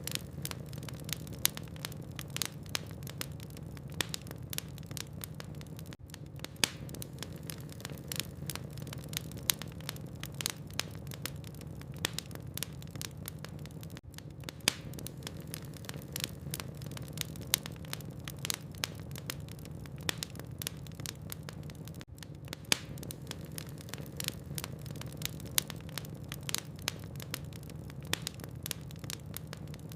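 Logs burning in a fireplace, crackling with frequent sharp pops of varying loudness over a steady low hum.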